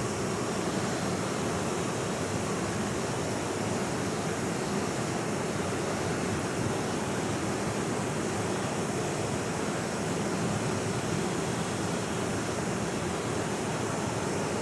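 Waterfall: a steady, unbroken rush of falling water, fullest in the low and middle range, with no change in level.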